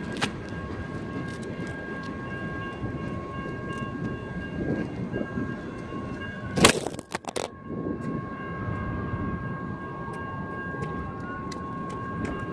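Freight train tank cars rolling through a grade crossing, a steady rumble with steady high tones over it. About halfway through comes a single loud thud as the camera's tripod tips over and strikes the ground, with a brief break and some knocking right after.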